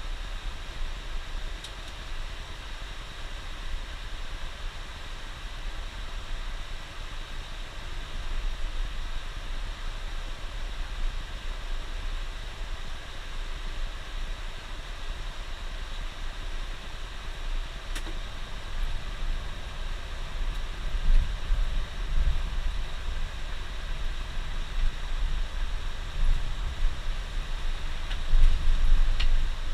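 A bus on the highway, heard from inside: a steady rumble of engine and road with tyre hiss. Heavier low rumbles swell about two-thirds of the way through and again near the end.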